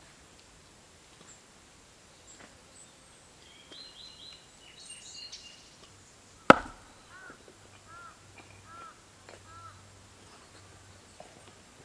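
Wild birds calling outdoors: a few high chirps, then a run of about five short arched calls. A single sharp knock a little past halfway is the loudest sound.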